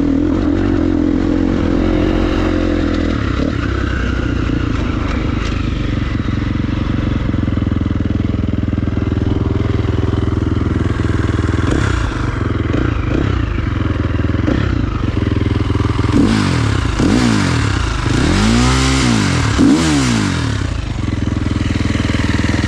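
Motorcycle engine running steadily, then revving up and down several times in quick succession near the end.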